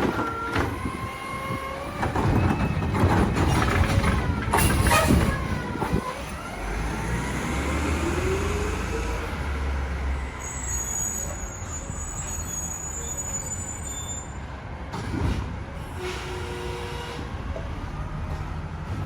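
Mack LR garbage truck on the move: brakes squealing in sliding pitches with a burst of air hiss about five seconds in, then the diesel engine rising in pitch as the truck pulls away.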